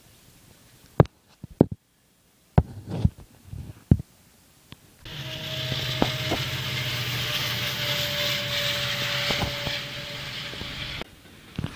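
A few sharp knocks, then a diesel freight train passing close by: a loud steady rumble of the locomotive and cars rolling past, with a steady low engine hum and a steady tone over it, cutting off suddenly near the end.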